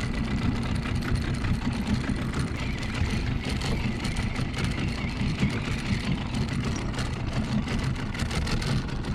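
Small boat's outboard motor idling steadily, with a constant low engine note.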